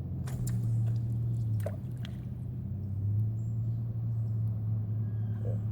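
Water dripping and splashing in a few short sharp bursts, mostly in the first two seconds, over a steady low hum.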